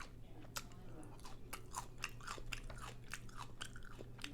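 A person chewing and biting into a crunchy hard-shell taco boat, a quick run of crisp crunches and crackles.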